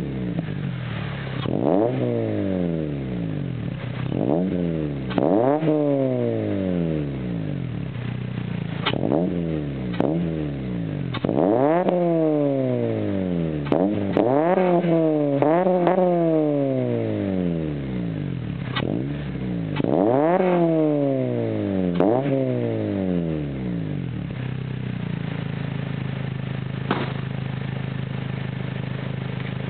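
2008 Honda Civic Si's 2.0-litre four-cylinder engine breathing through a Skunk2 MegaPower R 70 mm exhaust and an Injen short ram intake, free-revved about ten times. Each rev climbs quickly and falls back slowly. Some revs come singly and some in quick pairs. About 24 seconds in, it settles to a steady idle.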